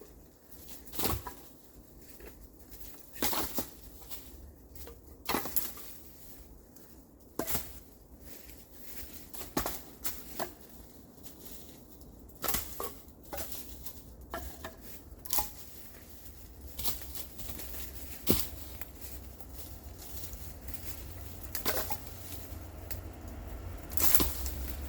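A string of sharp, irregular knocks and clatters, roughly one every one to two seconds, over a low steady rumble, with no engine running.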